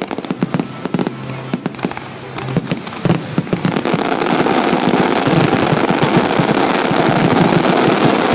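Fireworks display: scattered bangs and cracks, building about three seconds in into a dense, continuous barrage of rapid crackling explosions.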